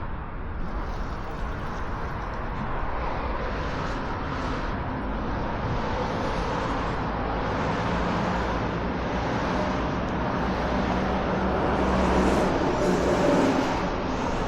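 Steady road traffic with cars driving past, and one louder vehicle passing about twelve seconds in.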